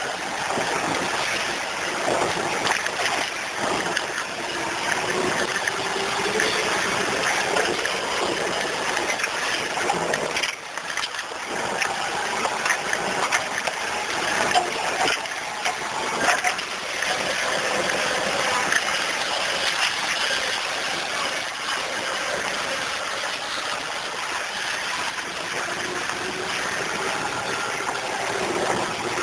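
A vehicle driving slowly along a waterlogged dirt road, its tyres splashing and sloshing through mud and puddles while the engine runs under load, its pitch rising and falling now and then.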